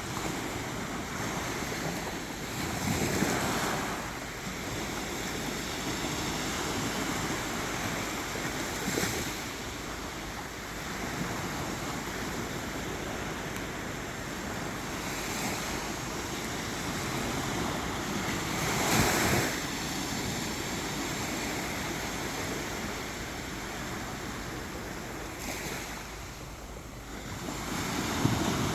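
Sea waves breaking on a beach: a steady rush of surf that swells four times as waves come in and wash up, a few seconds apart.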